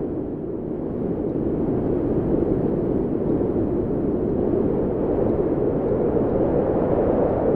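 Wind blowing steadily, a low, even rushing without gusts or breaks.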